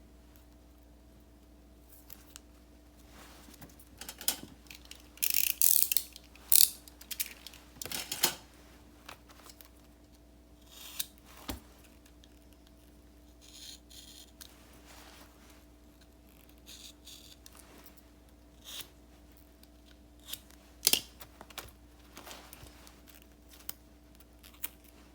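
Paper and stickers being handled and worked at a desk: a string of short papery scrapes, snips and clicks, loudest in a cluster about four to eight seconds in and again near twenty-one seconds, over a faint steady hum.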